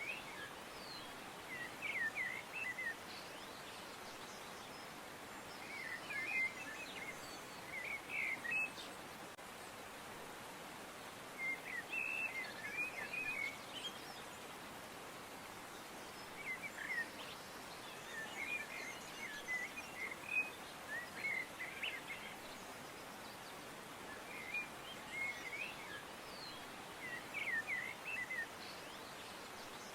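Small birds chirping in short runs of quick high notes every few seconds, over a steady soft hiss.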